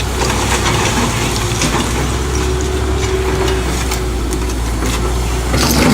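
Heavy construction machine's engine running steadily, a low hum with many scattered short clicks and clatter over it.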